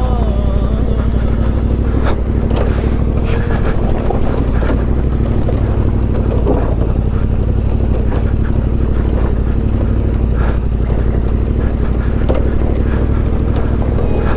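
Motorcycle engine running steadily at low revs, with a fast, even pulse of firing strokes.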